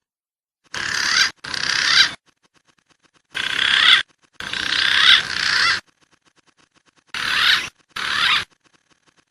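Recorded wild pigeon calls played for bird luring: six short bursts of squealing, whistling calls, each cut off abruptly, with silent gaps between.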